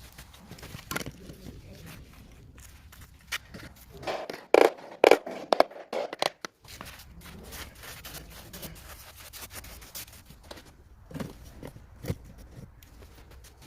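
Hand tools scraping and knocking during floor base work, in scattered clicks and scrapes. The loudest burst comes about four to six and a half seconds in.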